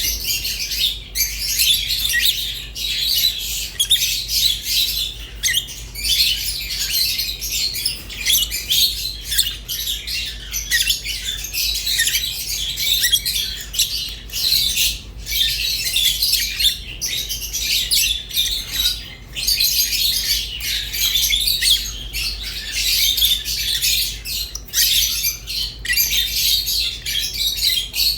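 Rosy-faced and Fischer's lovebirds chirping and squawking nonstop, a dense, shrill chatter of many overlapping calls. A faint low hum runs underneath.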